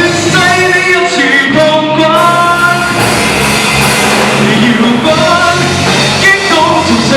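A rock song with a sung vocal melody over band accompaniment.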